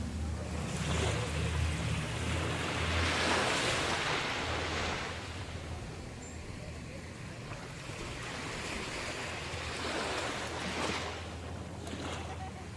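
Small waves washing onto a sandy beach, the surf swelling louder about three seconds in and again near the end, with wind rumbling on the microphone during the first half.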